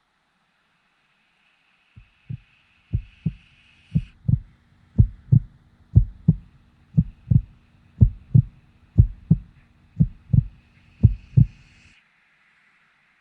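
Heartbeat sound effect: about ten paired lub-dub thumps, one pair a second, starting about two seconds in and stopping near the end.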